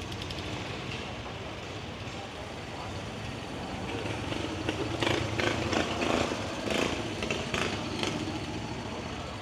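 A vehicle engine running steadily under the murmur of people talking, the voices growing busier and louder from about four seconds in to about eight seconds in.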